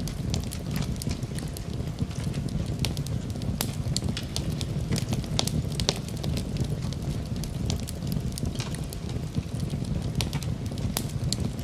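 Campfire burning: frequent sharp, irregular crackles and pops over a steady low rumble.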